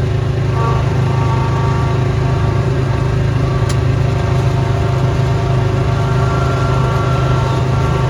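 Snowblower's small gasoline engine running steadily at a constant speed, with one short tick about three and a half seconds in.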